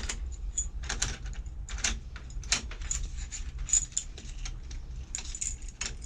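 Keys jangling and a run of irregular metallic clicks and rattles as a key is worked in a newly fitted Enfield garage door lock, testing whether it turns the lock.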